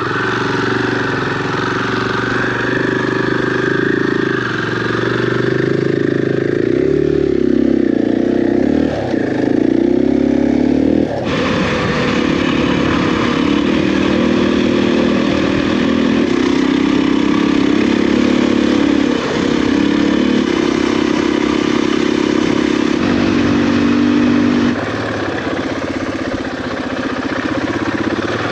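Motorcycle engine under load while riding, revs rising and falling in the first part, the bike labouring through soft sand. About eleven seconds in the sound changes abruptly to a steadier engine note, which eases off near the end.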